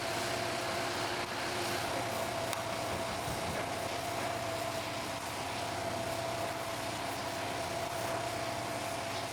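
A machine running steadily, with a constant whine over an even hiss and no change in speed.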